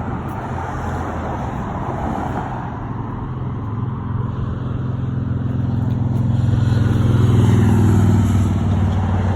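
A truck's 454 big-block V8 idling steadily with a deep, even note, growing louder about six seconds in and easing slightly near the end.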